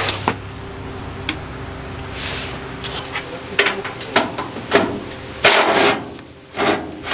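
Scattered knocks and clatter in a workshop, with a couple of longer rushing noises near the end, over a steady low hum.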